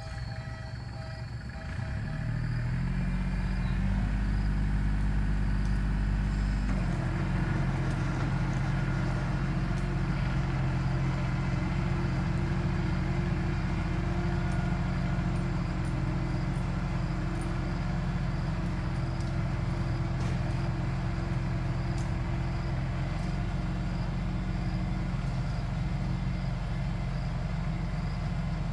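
Tractor diesel engine running hard, its revs climbing over the first few seconds and then holding steady under load.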